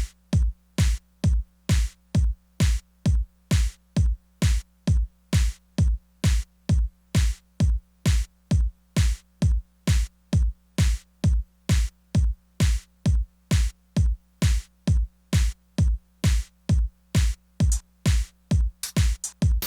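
Korg Electribe Sampler ES2 playing a tech house drum pattern: a steady four-on-the-floor kick, each beat paired with a bright top hit, about two beats a second over a sustained low bass tone. A quick roll of extra hits comes near the end.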